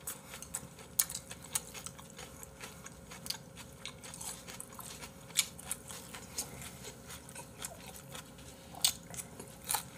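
Close-miked chewing of stir-fried chicken gizzards: a run of short, crisp, crunchy clicks from the firm gizzard meat.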